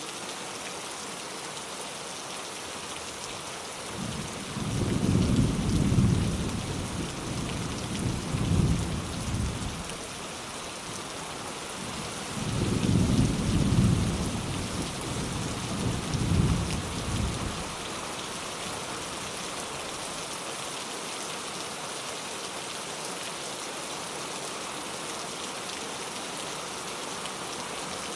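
Steady rain falling, with two rolls of low thunder: one rumbling in about four seconds in and swelling several times over some six seconds, and a second starting about twelve seconds in and lasting about five seconds.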